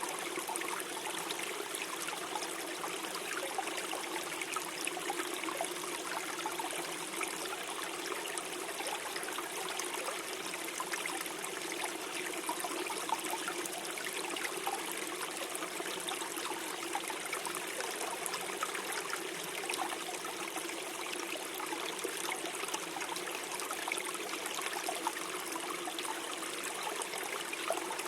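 Small forest stream flowing and gurgling steadily over stones, a continuous babble of running water.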